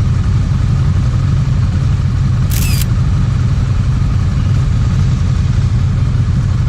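Motorcycle engine running steadily, a loud low rumble. A brief high-pitched hiss cuts in about two and a half seconds in.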